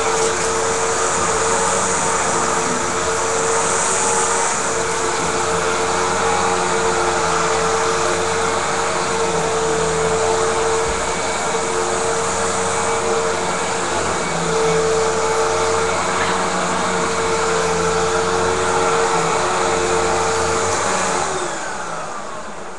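Vacuum cleaner running with a steady whine. Near the end it is switched off and the motor winds down, its pitch falling.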